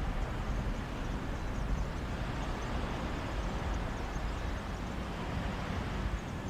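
Mediterranean sea waves washing onto a beach: a steady noise that swells gently around the middle, with a low wind rumble from the sea breeze.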